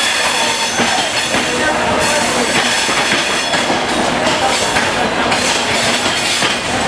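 Passenger train rolling through the station: a steady rumble with wheels clattering over the rail joints.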